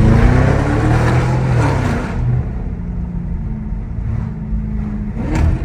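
Straight-piped Audi S7 exhaust accelerating, its note climbing for about two seconds, then settling into a steady drone. There is one sharp crack about five seconds in.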